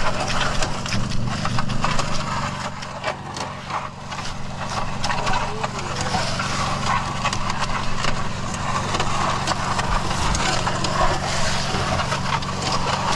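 Mud Mixer portable concrete mixer's small engine running steadily, with irregular clattering and knocking over it as concrete is mixed and handled.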